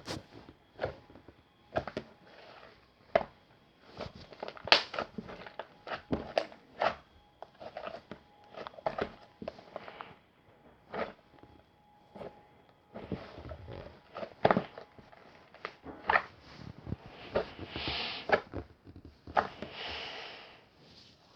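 Eating sounds: irregular crunchy bites and chewing clicks, with two longer rustles near the end.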